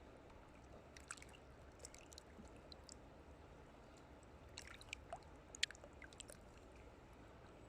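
Near silence with a low steady hum, broken by faint scattered clicks and ticks: a few about a second in, then a denser cluster around five seconds in with one sharper click.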